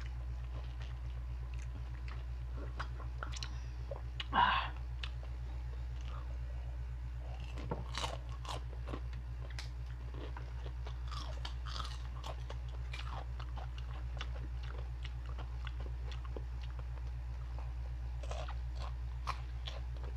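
Crisp crunching and chewing of chicharon, deep-fried pork cracklings, bitten and chewed in many short crackles, over a steady low hum. There is one brief louder noise about four and a half seconds in.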